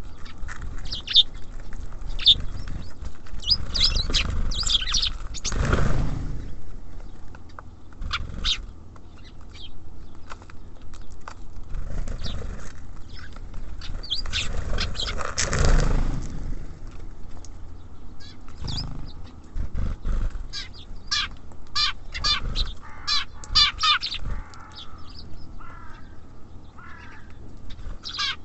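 Small songbirds at a bird feeder calling with short, high chirps that come again and again, over a low steady rumble. Two louder rushing noises swell up about six seconds in and again at about fifteen seconds.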